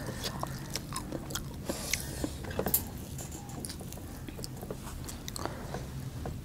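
Close-up eating sounds: chewing and lip smacks of people eating rice and pork by hand, with many small scattered clicks, a short cluster of louder ones about two and a half seconds in.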